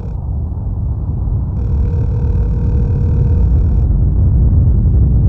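Low rumbling drone that swells steadily louder, with a faint steady tone above it.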